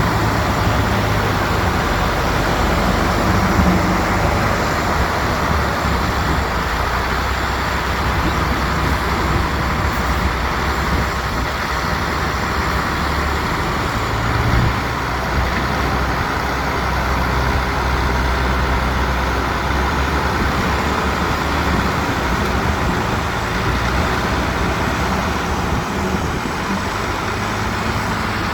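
Diesel engines of heavy earthmoving machinery, a bulldozer and dump trucks, running steadily under load with a continuous low hum and mechanical noise that swells a little now and then.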